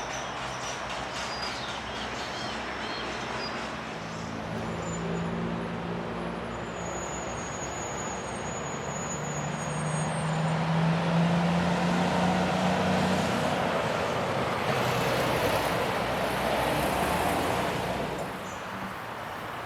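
A motor vehicle passing, its engine hum growing louder through the middle and fading near the end over steady traffic noise.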